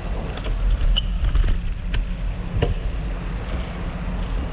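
Bicycle ride heard from a bike-mounted camera: a steady low wind rumble on the microphone, with a few sharp rattling clicks from the bike and mount.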